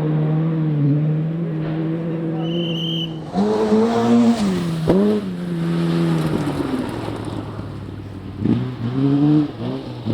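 Rally car engine under hard driving: a steady note, then from about three seconds in the revs rise and fall through gear changes, with one sharp crack about five seconds in. Near the end come quick rev rises and drops.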